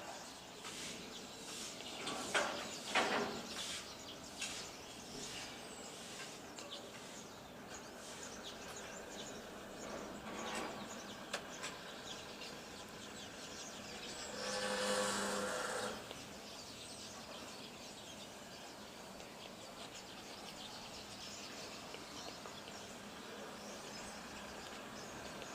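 Outdoor ambience: birds chirping over a steady background hiss, with a cluster of short, louder chirps or noises about two to four seconds in. About fifteen seconds in, a brief pitched sound lasts a second and a half.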